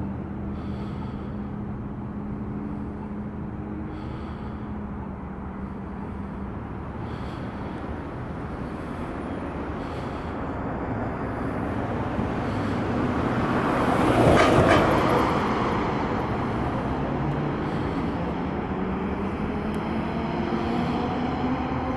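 Steady vehicle and traffic noise, building to a vehicle passing close by about two-thirds of the way through, then fading. A low tone starts rising near the end.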